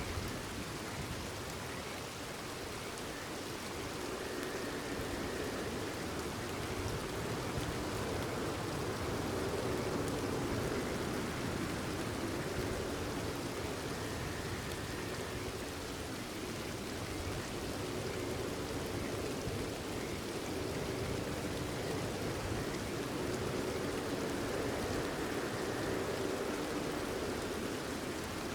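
Steady rain falling, with frogs calling underneath: a continuous low chorus and a few brief higher calls.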